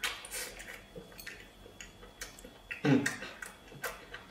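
Close-miked chewing and lip-smacking of a person eating soft braised pork elbow: a run of short wet smacks and clicks, with a brief low voiced 'mm' about three seconds in.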